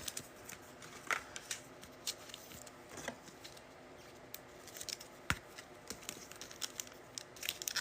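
Trading cards and a foil card-pack wrapper being handled, with soft scattered clicks and rustles and one sharper click about five seconds in.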